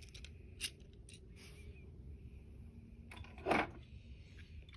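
Small die-cast and plastic toy trains being handled: a few faint clicks, then a louder short clack about three and a half seconds in, as a toy engine is picked up or set down.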